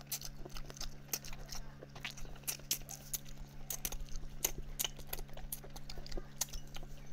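Close-miked wet chewing and lip-smacking on braised chicken head: soft, irregular clicks and smacks, with a faint steady low hum under them.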